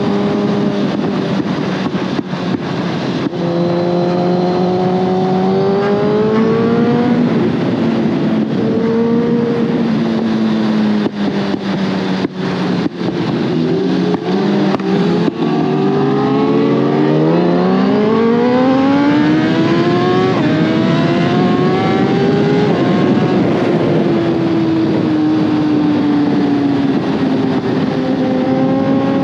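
Inline-four superbike engine pulling through the gears at road speed, with wind noise. The pitch climbs and drops several times; one long climb midway ends in a sharp drop at an upshift about twenty seconds in.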